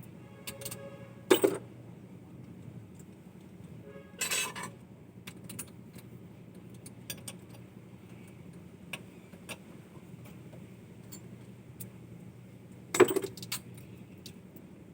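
Metal pieces clinking and clattering against each other. There are three louder strikes: about a second in, around four seconds, and near the end. Small clicks are scattered in between over a steady low hum.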